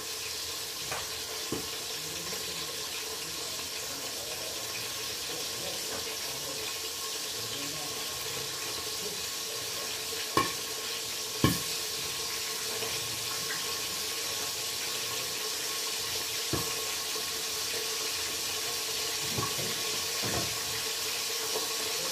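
Fish cooking in a covered pot on an electric coil burner: a steady sizzling hiss with a few sharp clicks, the two loudest about halfway through.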